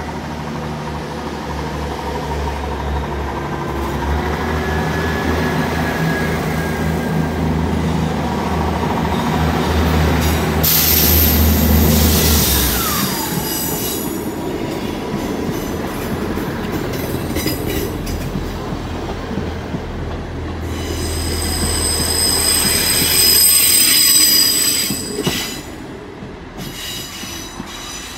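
Electric passenger train running through a station. A steady low hum gives way to a falling whine about halfway, and high-pitched wheel squeal is loudest near the end.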